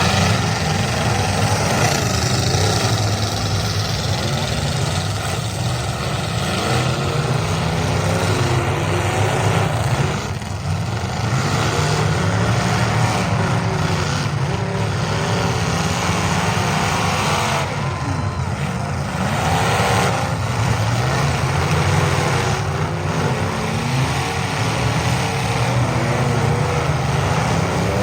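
Several demolition derby cars' engines running and revving at once, many overlapping engine notes rising and falling.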